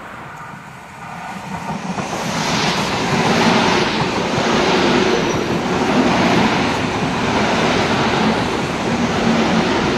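Tricity SKM commuter electric multiple unit running past along the platform: the rush of wheels on rails swells in about a second in and then holds steady.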